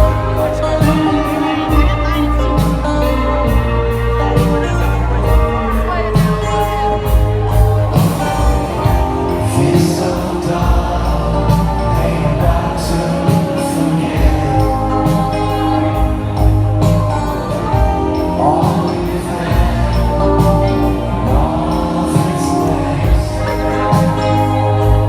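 Live band playing a song with sung vocals over drums and bass, in a concert hall's sound.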